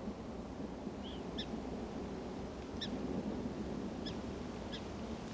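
Short high chirping animal calls, a handful spaced irregularly a second or more apart, over a faint steady low outdoor background.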